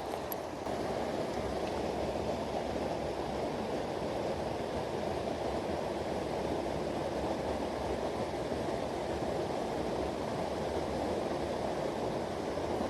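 Mountain stream rushing steadily, a little louder from about half a second in.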